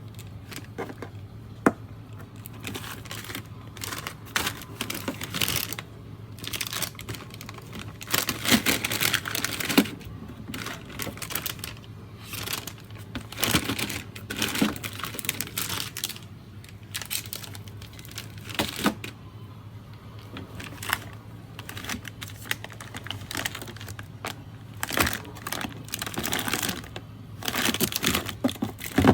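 Irregular crinkling and rustling of packaging, with small clicks and knocks of things being handled, over a steady low hum.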